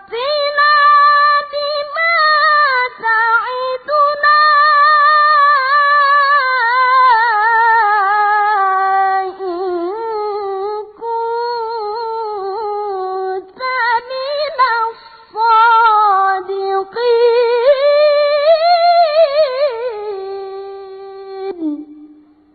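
A boy's high voice chanting Quranic recitation (tilawah) in long, ornamented held phrases with a wavering vibrato and short breaks for breath. The last phrase settles on a lower note and dies away near the end.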